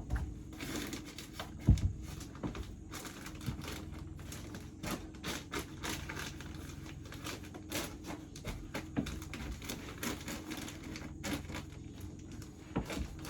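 Insulation batts being handled and pushed into place between wall studs: irregular rustling with scattered taps and knocks, and a louder thump about two seconds in.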